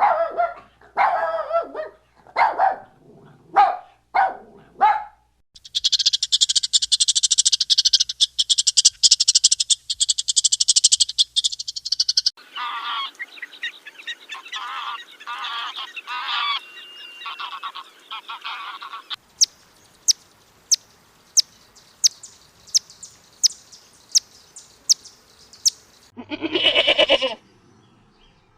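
A sequence of different animal calls in turn: a few short calls, then a dense high-pitched trill for several seconds, a stretch of chattering calls, a run of sharp chirps about two a second, and a longer call near the end.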